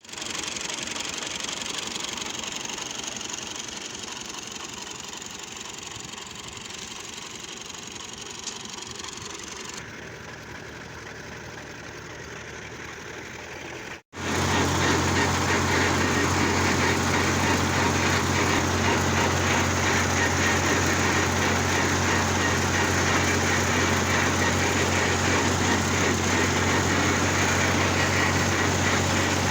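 Ghazi tractor's diesel engine running steadily. It is fainter at first; after a break about halfway through it comes in louder and steady, with a low, even hum.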